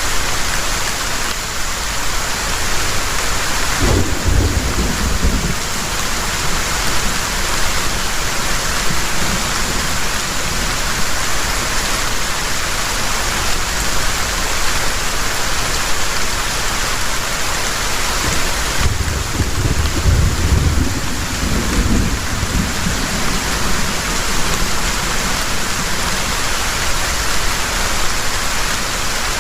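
Heavy rain pouring steadily, with two low rumbles of thunder: a short one about four seconds in and a longer one about two-thirds of the way through.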